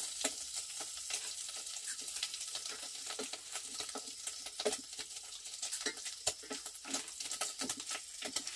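Food sizzling as it fries in a pan, with many small scrapes and taps of a utensil stirring it over a steady high hiss.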